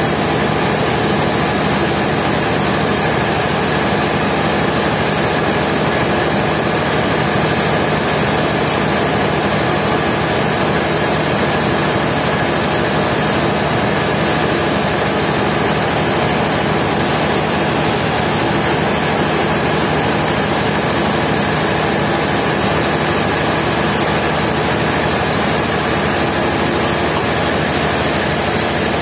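Sawmill machinery running steadily, a constant engine drone and hum with no change in speed.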